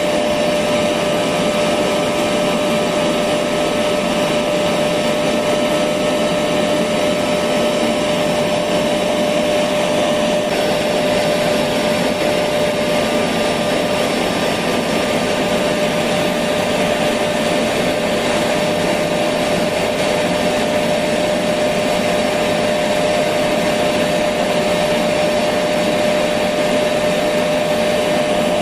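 Electric vacuum cleaner running steadily: a constant rushing of air with a steady motor whine, unchanging in pitch and level.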